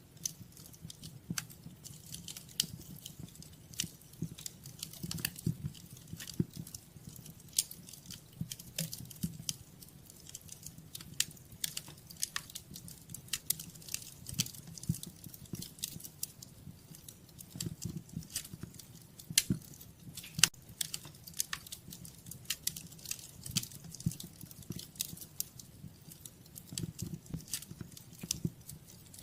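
Wood fire burning in a fireplace, crackling and popping irregularly over a soft low rumble of the flames.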